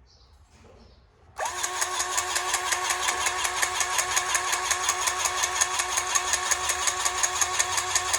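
Cordless powered grease gun running, its pump pulsing rapidly and evenly as it forces grease into a grease zerk on the truck. It starts suddenly about a second and a half in.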